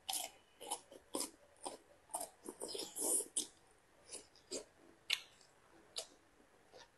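Close-miked chewing of crisp stir-fried Chinese kale stems with beef: irregular wet crunches and mouth sounds, densest about halfway through.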